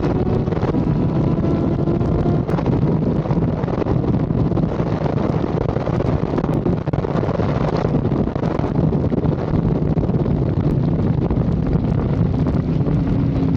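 Steady, loud wind and road noise from a moving vehicle, with a faint engine hum underneath.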